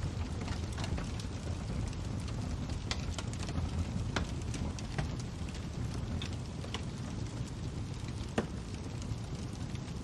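Fire crackling: a steady low rumble with irregular sharp pops and snaps, the loudest about eight seconds in.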